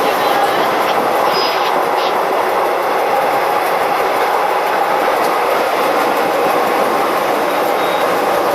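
Test train running along the track, a steady loud rumble of wheels on rail.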